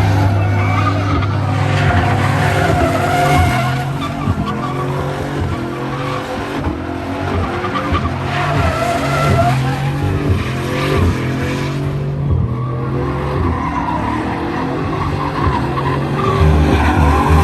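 Truck doing a burnout: tires squealing and skidding against the pavement while the engine runs at high revs, with the tire squeal wavering up and down.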